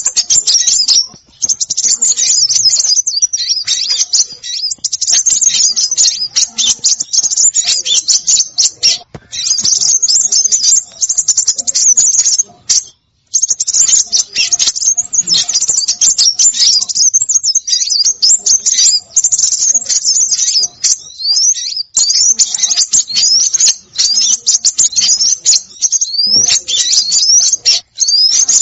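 Small songbirds on a lure-call recording, chirping and twittering in a busy, rapid stream of high notes, with quick rising slurs in the later part and a few brief breaks.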